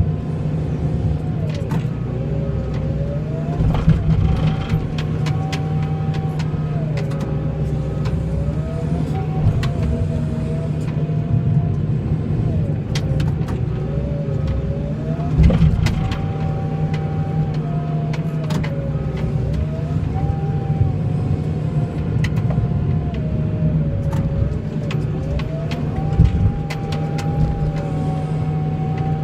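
The engine of a snow-plowing vehicle running, its pitch rising and falling every few seconds as it drives and pushes snow back and forth, with occasional knocks and clunks.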